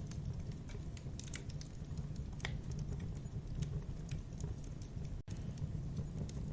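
Campfire burning: irregular crackles and pops of burning wood over a steady low rumble of the flames. The sound drops out for an instant about five seconds in.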